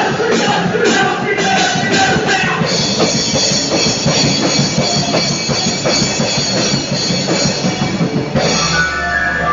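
Drum kit played hard over a rock-style worship song with singing, with a run of heavy cymbal and drum hits in the first few seconds. About eight seconds in the drums stop and held guitar chords carry on.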